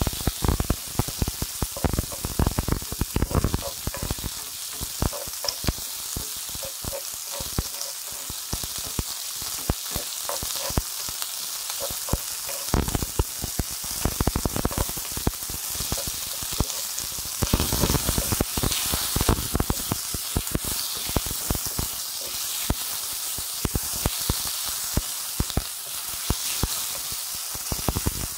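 Chopped onion, garlic and sliced chicken breast sizzling in hot oil in a pan, with a wooden spatula scraping and clicking against the pan as it stirs them.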